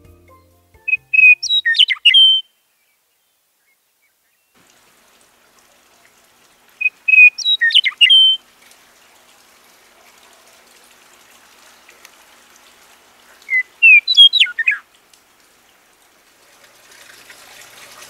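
A songbird singing three short phrases about six seconds apart, each a brief whistled note followed by a quick run of sweeping chirps.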